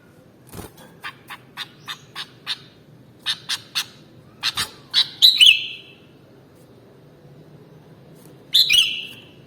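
Sooty-headed bulbul calling: a run of short, sharp chirps, about three a second, then a louder warbled phrase about five seconds in and another near the end.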